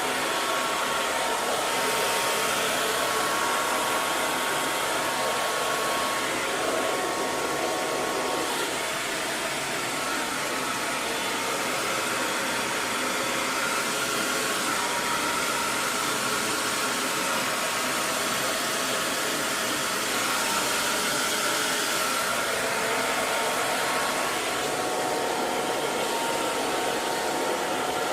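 Electric hair dryer running steadily: a continuous blowing hiss with a faint whine near 1 kHz.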